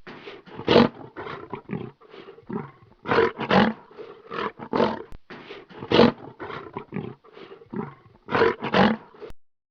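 Lion roaring: a series of short, separate roars, the loudest about a second in, around three and a half seconds, six seconds and eight and a half seconds, ending just before a cut.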